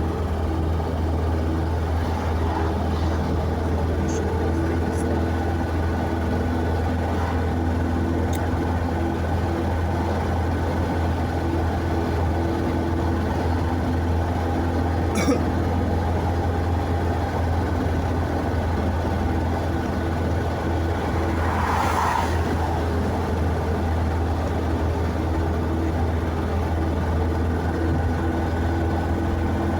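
Steady drone of a vehicle being driven, a low engine and road hum with steady tones above it. A sharp click comes about halfway through, and a short brighter sound a few seconds later.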